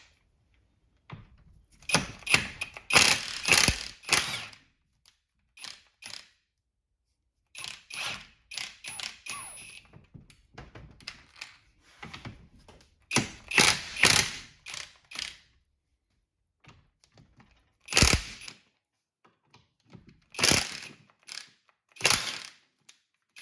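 A wrench rattling in about seven short bursts, with pauses between, as the 17 mm bearing-cap bolts of a Toyota 8-inch differential are broken loose.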